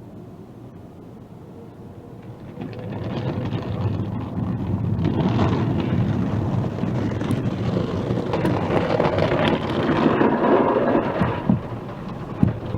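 Car wash machinery spraying and scrubbing the car: a rushing wash of noise that builds up about three seconds in and eases off near the end, with a few low thumps.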